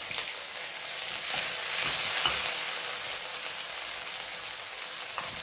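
Crushed ginger and garlic sizzling in hot oil in a kadai, a steady frying hiss, with a few light scrapes as the paste is scraped off a cup into the pan in the first half.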